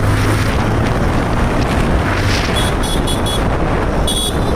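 Wind buffeting the microphone and road noise while riding a motorcycle, over a low steady engine drone. Short high-pitched beeps come in quick succession about two and a half seconds in, and again near the end.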